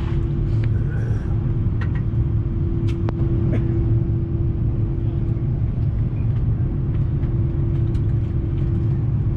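Steady low engine rumble with a constant droning hum and a few faint clicks.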